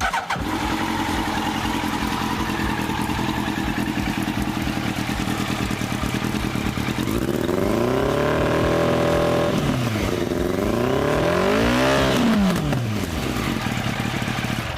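Yamaha motorcycle engine idling steadily, then revved twice in the second half, the pitch rising, holding briefly and falling back to idle each time.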